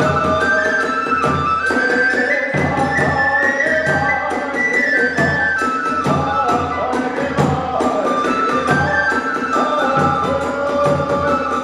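Kagura hayashi ensemble playing: a bamboo flute melody moving up and down in steps over a steady beat of taiko drums and hand cymbals.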